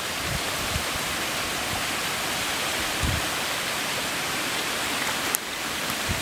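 Steady rushing of water, an even hiss without distinct drops or strokes, with a brief tick about five seconds in.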